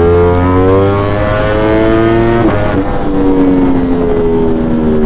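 A 200+ hp sport motorcycle's engine, heard from on board the bike. Its revs climb for about two and a half seconds, dip at a gear change, then slowly fall as the throttle eases, over steady wind and road noise.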